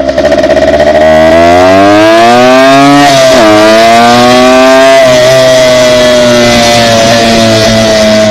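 Dirt bike engine accelerating: the pitch rises, drops sharply about three seconds in as if on a gear change, climbs again and then holds fairly steady as the bike cruises.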